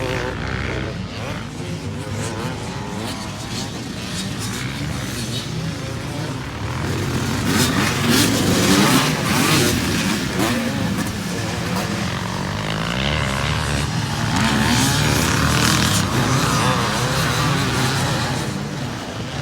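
Vintage twinshock motocross motorcycles running on the track, the engines revving up and down.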